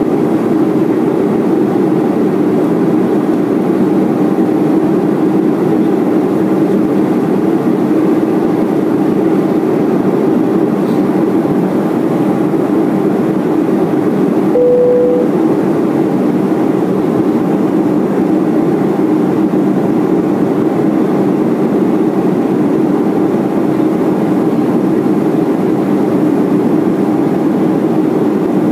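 Steady cabin noise inside a Boeing 737-400 descending towards landing: the even rush of airflow and engine noise from its CFM56-3 engines. About halfway through there is a brief steady tone.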